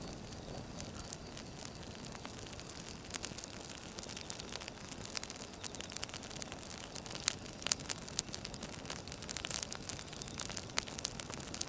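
Wood fire crackling: irregular sharp pops and snaps over a steady low hiss, coming more often from a few seconds in.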